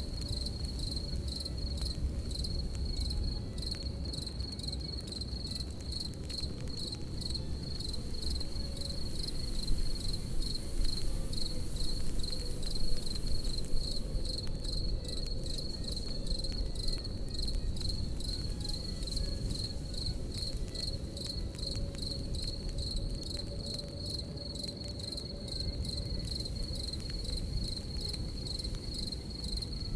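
Crickets chirping in a steady, even rhythm over the low rush and crackle of a campfire, with a few louder pops about ten to thirteen seconds in.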